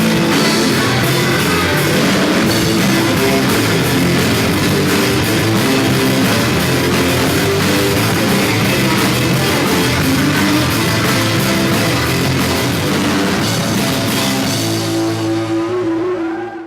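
Rock band playing live, with guitars and a drum kit. Near the end the cymbals drop away and a held chord rings on, then cuts off abruptly.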